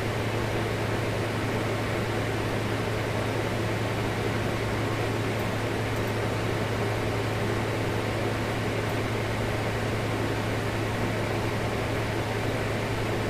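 Steady background hum with an even hiss, unchanging throughout, like a fan or air conditioner running in the room.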